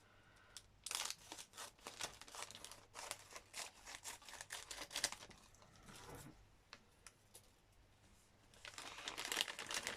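Crinkly packaging being handled and torn: irregular crackling and tearing that eases off for a couple of seconds, then picks up again near the end.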